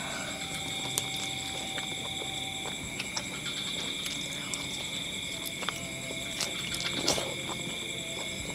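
Close-up eating sounds: small wet clicks and smacks of chewing as chicken meat in opor sauce is bitten off the bone, with a louder smack about seven seconds in. Behind it runs a steady high chirring of night insects.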